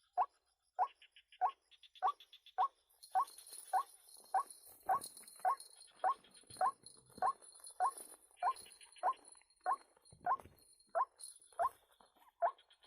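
White-breasted waterhen (ruak-ruak) calling: a short rising note repeated about every 0.6 s, on and on. A faint high insect buzz joins about three seconds in.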